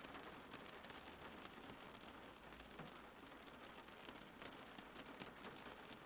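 Steady rain falling outside, a faint even hiss with many small scattered drop ticks.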